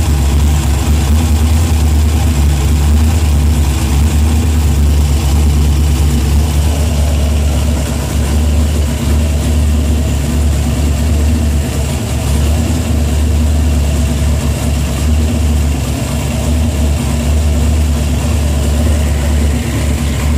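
Carbureted Ford V8 running at a steady idle, a deep, even rumble.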